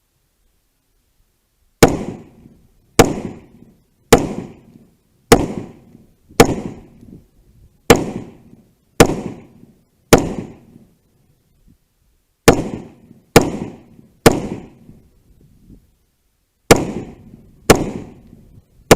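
About a dozen single gunshots fired roughly a second apart, each a sharp crack with a short echoing tail, with two brief pauses between strings of shots.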